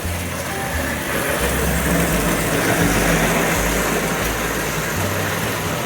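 Lionel 402 twin-motor standard gauge electric locomotive running with its passenger cars on three-rail track: motor hum and wheel rumble that swell about a second and a half in and ease off toward the end.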